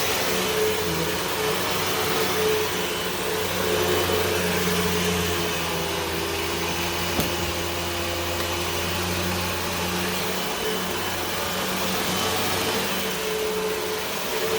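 Hoover WindTunnel 2 Whole House Rewind upright vacuum running steadily, its motor hum shifting slightly in pitch as it is worked over the floor, with one light click about halfway.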